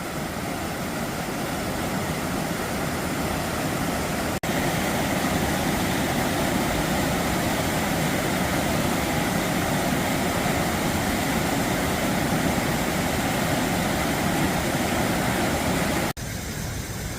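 Waterfall rushing steadily, an even wash of falling water that drops out for an instant twice and is a little quieter after the second break near the end.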